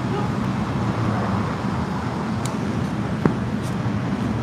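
Steady low hum of a car running, with one short click about three seconds in.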